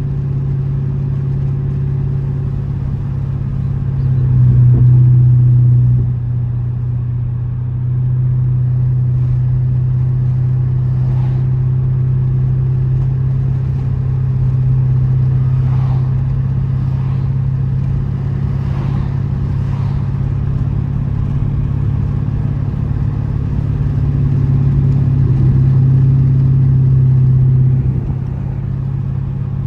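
Straight-piped 6.4-litre Hemi V8 exhaust of a 2012 Dodge Charger SRT8, droning steadily while driving. It swells louder under throttle twice: about four seconds in and again near the end.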